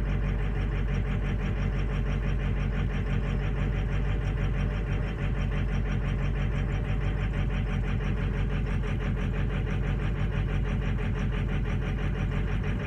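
V8 diesel truck engine idling cold and running rough, with several cylinders dropping out and barely firing. The owner puts this down to sticking injectors (stiction).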